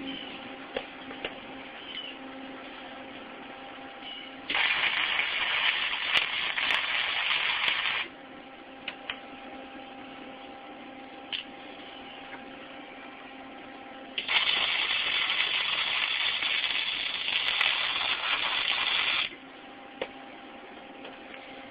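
Flux-core wire-feed welder arcing in two runs of a few seconds each, a dense crackling hiss, as a steel kickstand is welded. A steady hum and a few small clicks sit between the runs.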